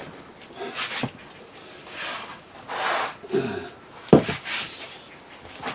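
Handling noise: a few knocks and clatters with rustling in between, the sharpest knock coming about four seconds in.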